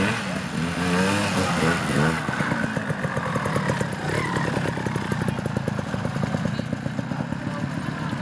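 Youth trial motorcycle engine, revved up and down in short blips for the first couple of seconds, then running at low revs with a rapid, even firing pulse as the bike is ridden slowly through the section.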